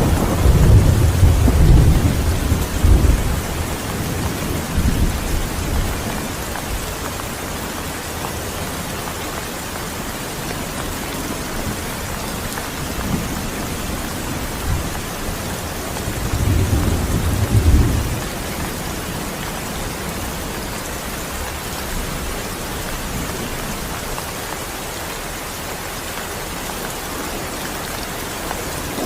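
Steady heavy rain with low rolls of thunder rumbling over it: a strong one at the start, a weaker one soon after, and another about halfway through.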